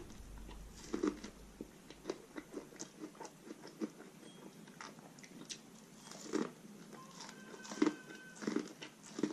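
A person biting and chewing roasted corn on the cob: a run of short, irregular crunchy bites and chewing clicks, a few louder ones about a second in and again near the end.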